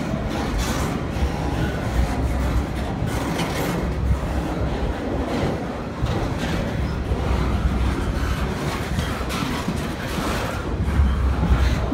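Double-stack intermodal freight train's well cars rolling past close by: a steady low rumble of steel wheels on rail, with scattered clanks and rattles from the cars.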